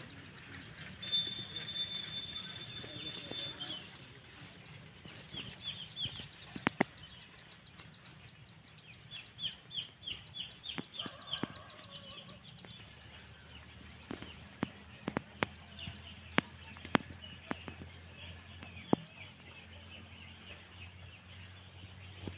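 Birds calling: a single held high whistle near the start, then two quick runs of short chirps. Scattered sharp clicks and taps are heard through the middle and later part.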